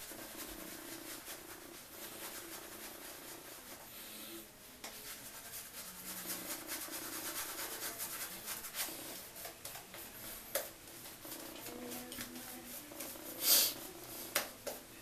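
Wolf Whiskers badger-hair shaving brush working wet shaving lather, a continuous quick rubbing made of many small strokes. About three-quarters of the way through there is a brief, louder hiss.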